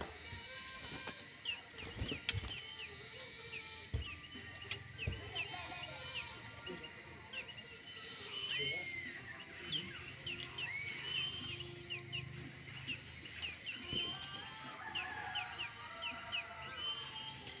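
Many small songbirds chirping together in an aviary, a dense stream of short high chirps with a few longer whistled glides. A few sharp knocks, about four, are mixed in.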